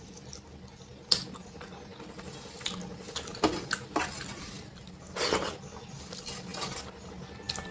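Scattered clinks and knocks of a dinner plate being handled during a meal of rice and dal, with a longer wet scraping sound about five seconds in.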